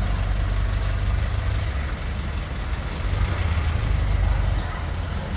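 2015 Chevy Tahoe's V8 engine idling with a steady low rumble that swells slightly a few seconds in.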